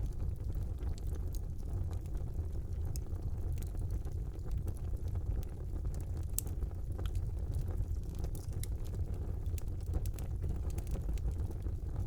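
Fire burning in a brick fireplace: a steady low rumble of the flames with scattered crackles and pops, a sharper pop about six seconds in.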